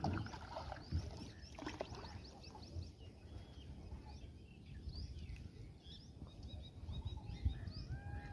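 Birds chirping and whistling in many short rising notes over a low steady rumble, with a few soft knocks in the first two seconds.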